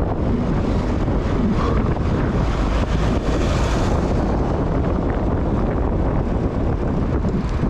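Steady wind rumble on the microphone of a camera carried on a moving bicycle, with street traffic beneath it.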